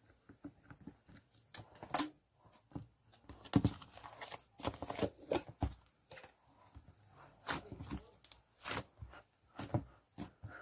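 Irregular clicks, crackles and rustles of something being handled at close range, with a few louder snaps about two, three and a half, and five and a half seconds in.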